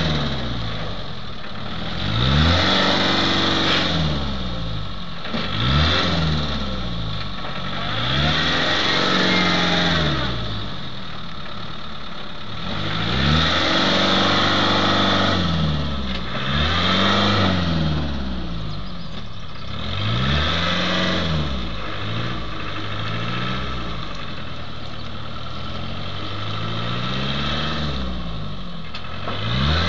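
Land Rover engine revved again and again, each rev rising and falling every two to three seconds, as the driver tries to get the stuck vehicle out of a muddy field.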